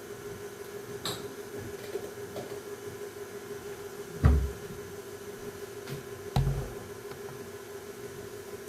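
Kitchen handling noises over a steady hum: a light click about a second in, then two dull thumps about two seconds apart as things are set down or a cupboard or fridge door is shut.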